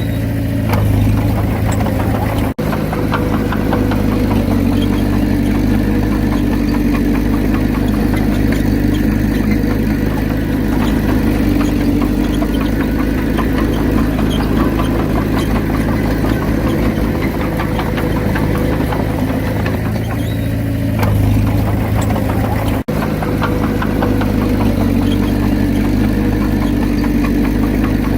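Komatsu D31P bulldozer's diesel engine running steadily under load, with a low, even throb. The sound cuts out for an instant twice.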